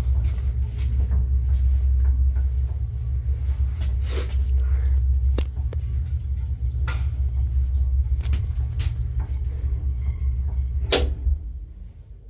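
1982 MLZ passenger elevator car travelling in its shaft: a steady low rumble from the drive with scattered clicks and knocks. About 11 seconds in there is a sharp clunk and the rumble dies away as the car stops.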